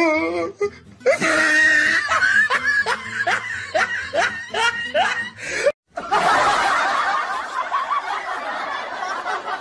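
A person laughing in a run of short, rising bursts, about two a second. The laughter breaks off suddenly just past halfway, then gives way to a denser, rougher stretch of sound.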